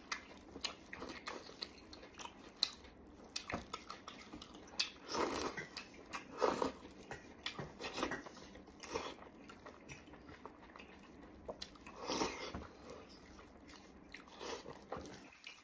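A man chewing and biting mouthfuls of braised meat close to the microphone, with irregular mouth clicks and a few louder bites.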